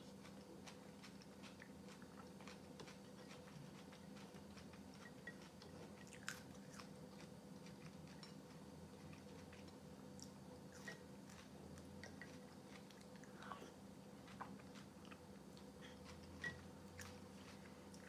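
Faint close-up eating sounds: chewing and biting, with crunches of raw green onion taken between spoonfuls of cold beet soup. A handful of short sharp clicks are spread through, over a faint steady hum.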